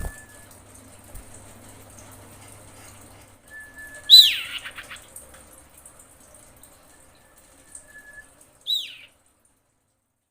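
Common iora (cipoh) calling in two phrases, each a drawn-out level whistle that ends in a loud, sharply falling note. The calls are those of a female in breeding condition calling to a male.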